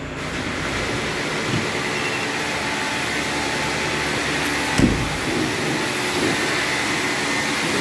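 Steady rushing noise of car-wash machinery, with a single thump about five seconds in.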